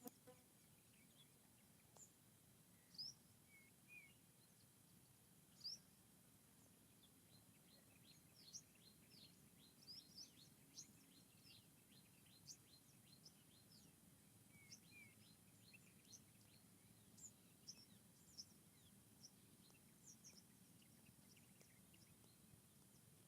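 Birds chirping faintly in forest ambience: scattered short, high chirps, with a quicker run of rapid downward-sweeping chirps in the middle, over a faint steady low background noise.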